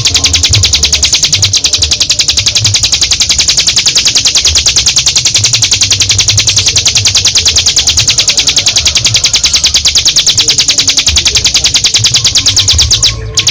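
Ciblek gunung singing one long, unbroken trill of rapid high-pitched notes: the continuous 'ngebren' song. It breaks off briefly near the end.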